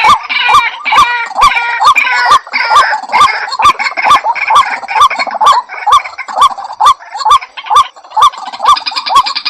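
White-breasted waterhen calling: a loud, rhythmic series of harsh repeated notes, about two to three a second, with busier overlapping chatter in the first few seconds.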